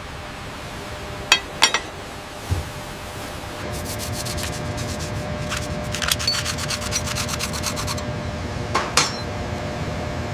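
Factory-floor machinery noise with a steady hum, a few sharp metal clinks and a dull thud, and a fast rasping rattle of metal for a few seconds in the middle.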